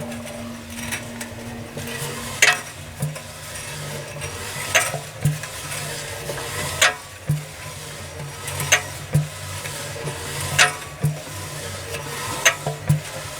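Lister CS diesel engine being turned over slowly by hand, its valve gear and oil pump giving a pair of sharp metallic clicks about every two seconds over a low steady hum.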